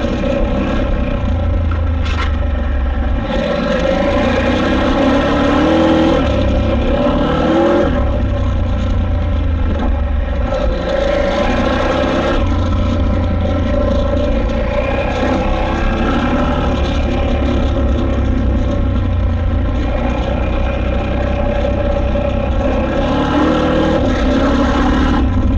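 KTM 890 Adventure R's parallel-twin engine running under load while the bike is ridden off-road, its pitch rising and falling with the throttle.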